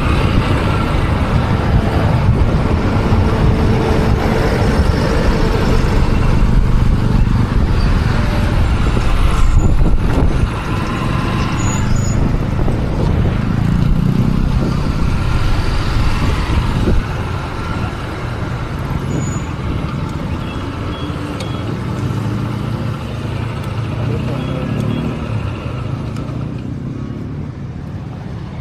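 Motorcycle on the move in town traffic: steady engine and road noise with passing vehicles. The sound drops somewhat in level a third of the way in and again a little past halfway.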